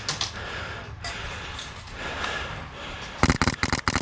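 Heavy breathing close to the microphone, then, about three seconds in, a rapid string of sharp clicks: a short burst of airsoft gunfire.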